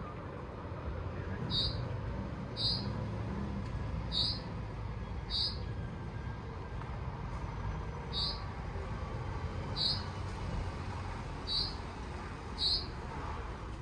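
A bird chirping: short high calls repeating about once a second, over a steady low background rumble.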